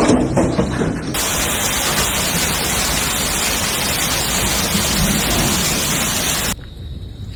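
Heavy storm downpour of rain and hail, one dense steady rush of noise that sets in about a second in and cuts off abruptly near the end.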